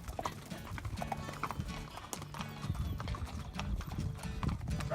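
Horses' hooves clip-clopping in an irregular patter over a background music track.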